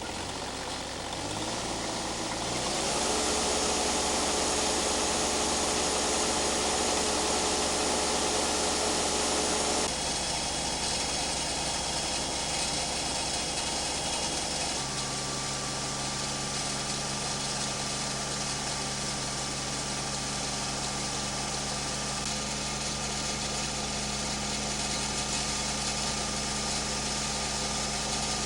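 New Holland compact tractor's diesel engine running, its speed climbing over the first few seconds and then holding steady. Its tone changes abruptly about ten seconds in, and a steady hum joins about fifteen seconds in.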